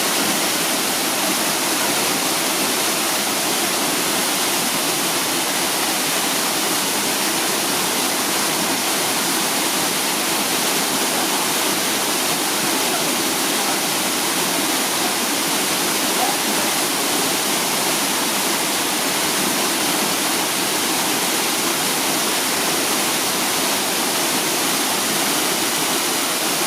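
Hyakken Falls pouring into its plunge pool: a steady, unbroken rush of falling water.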